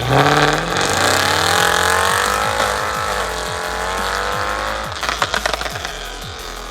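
A performance car's engine accelerating hard from a standstill, its note climbing for about two seconds and then holding. Near the end comes a rapid burst of exhaust crackles and pops.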